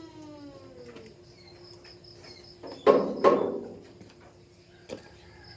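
Two loud sharp knocks about half a second apart, around three seconds in, with a lighter click near the end, over a faint, steady, high insect chirping.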